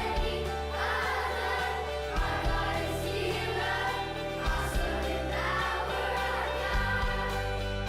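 Christian praise song: a choir singing over an instrumental backing with held low bass notes.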